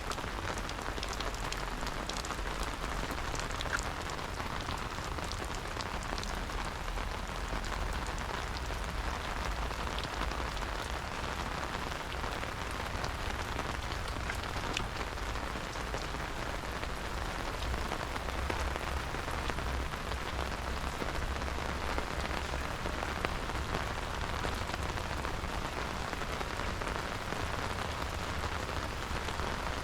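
Steady rain falling, an even hiss of rain on the surfaces around, with scattered faint drop ticks.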